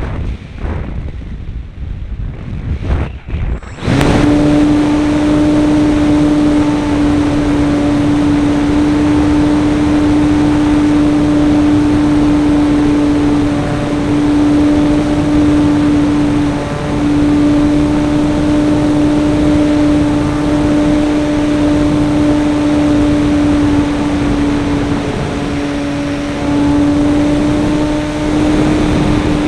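RC model airplane recorded from on board: for the first few seconds only buffeting wind noise with the motor throttled back, then about four seconds in the motor and propeller throttle up to a steady, high-pitched drone that holds with a few brief dips.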